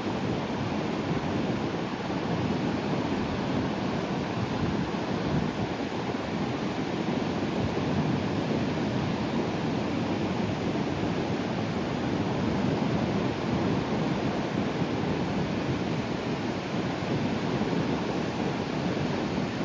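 Sea waves breaking on a rocky coast, a continuous wash of surf that swells gently in level with no single sharp crash.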